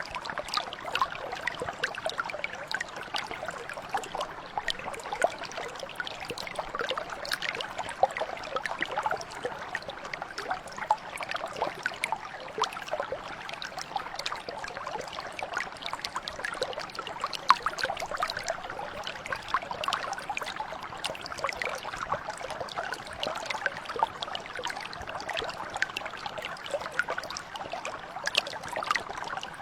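Small stream or mountain brook flowing over stones: a steady babble dense with small splashes and trickles.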